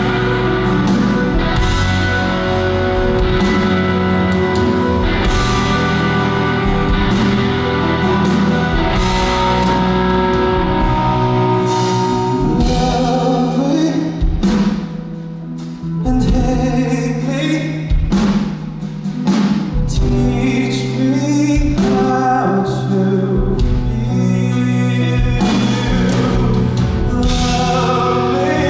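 Live performance of a song by a band with singing, drums and guitar. The music thins out to a quieter passage about halfway through, then builds back up.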